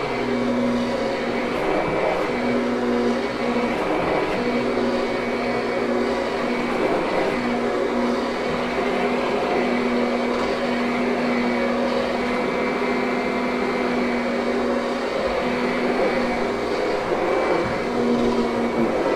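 Kirby upright vacuum cleaner running steadily while being worked over carpet. Its motor hum drops out and comes back every second or few.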